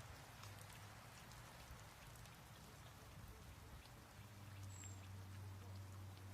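Faint steady hiss with scattered light ticks and a low hum that drops out for a few seconds in the middle, ending in one sharp click.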